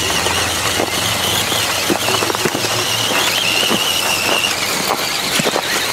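Radio-controlled rock-crawler trucks driving: the high whine of their electric motors and gearing, wavering in pitch, until it stops about four and a half seconds in. Scattered clicks and knocks run through it, more often near the end.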